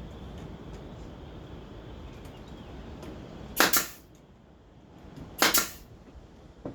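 Brad nailer firing twice, about two seconds apart, each shot a sharp bang as a brad is driven into a wooden slat.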